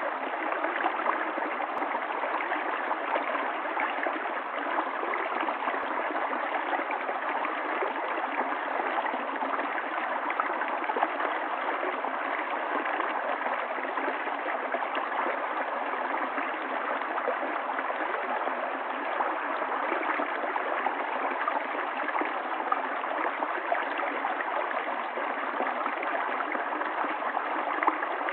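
Small stream running steadily over rocks, a continuous gurgling rush of water with little splashes.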